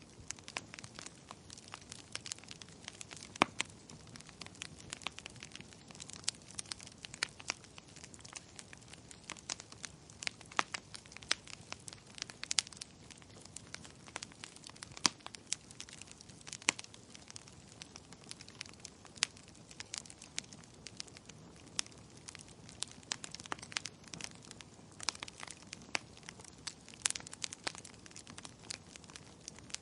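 Wood fire burning, crackling with irregular sharp pops and snaps of varying loudness over a soft steady hiss.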